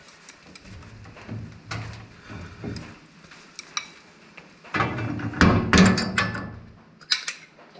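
Irregular metal clanks and knocks of hand tools on the brush cutter's hitch hardware as a large nut is worked on with a wrench and breaker bar, the busiest and loudest stretch coming about five to six and a half seconds in.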